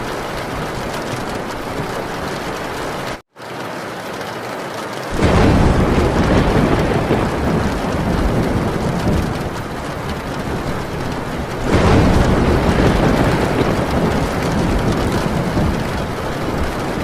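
Heavy rain falling on a tin roof, with thunder that comes in suddenly about five seconds in and again a little past the middle. The sound cuts out completely for a moment a little after three seconds in.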